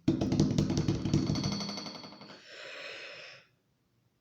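A woman imitating snoring: a loud rattling snore lasting about two seconds, then a breathy exhale.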